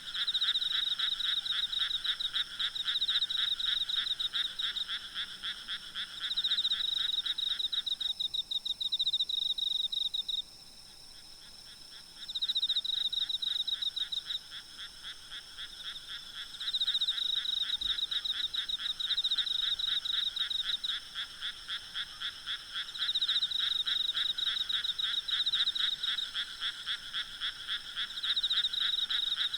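A night chorus of frogs calling in rapid pulsing trills, in overlapping bouts that drop away briefly about ten seconds in before starting up again. A faint steady insect hum sits high above them.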